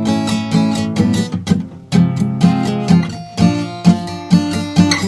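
Acoustic guitar playing an instrumental passage of a song, picked notes giving way to strummed chords about every half second.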